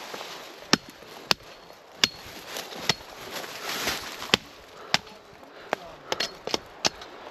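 Pruning shears snipping pine branches off a trunk: about ten sharp, irregularly spaced cuts, closer together near the end, with rustling of the cut branches in between.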